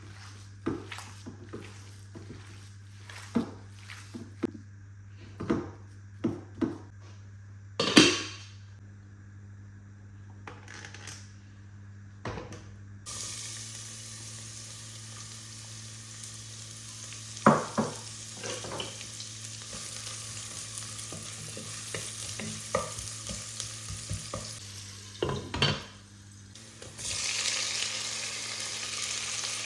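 Kitchen utensils knocking and clicking against dishes and pans over a low steady hum, then about thirteen seconds in food starts sizzling in a hot frying pan and keeps frying while a utensil stirs and knocks against the pan.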